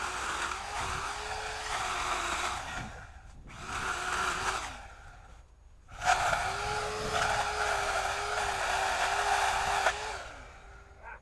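Chainsaw running at high speed in three bursts, the longest in the second half, with a short gap between each. Near the end its pitch slides down as it slows.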